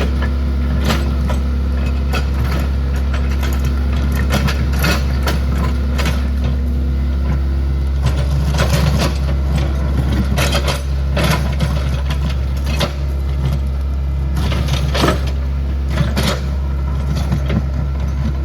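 Excavator's diesel engine running steadily under load, with repeated knocks, cracks and crunches of debris being broken.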